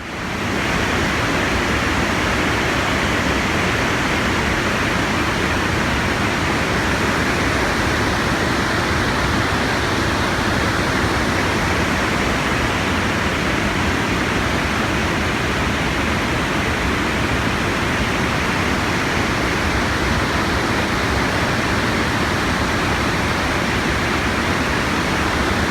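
Steady rushing water, an even unbroken roar that cuts in suddenly at the start.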